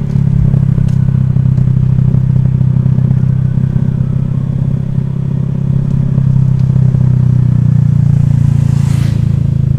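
Honda Vario scooter's single-cylinder engine running steadily while riding.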